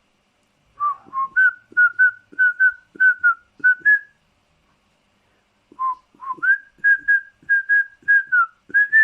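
Pet parrot whistling a run of short clear notes, about three a second, many sliding up into a held pitch, each with a click at its start. It breaks off for a couple of seconds in the middle, then starts a second run.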